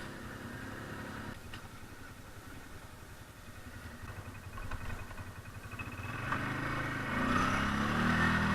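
ATV engine running, faint through the middle and growing louder from about six seconds in as it comes closer.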